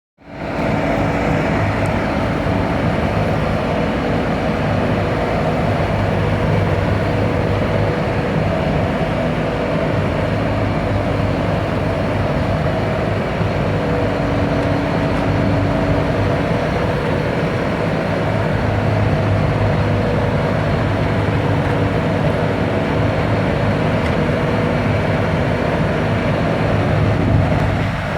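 Liugong CLG 375A skid steer loader's diesel engine running steadily under working load, its note swelling and easing every few seconds as it works.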